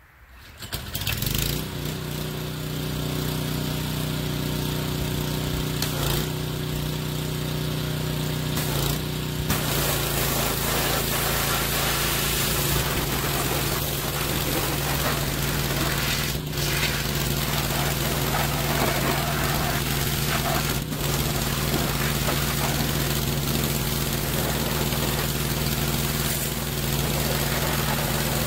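Small gasoline engine of a pressure washer starting and coming up to speed, then running steadily. About nine to ten seconds in, a hissing high-pressure water spray joins it and the engine note shifts slightly as the spraying begins.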